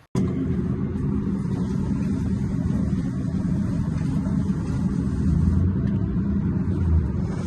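A steady low mechanical rumble, like a running engine or motor, that starts abruptly just after the beginning.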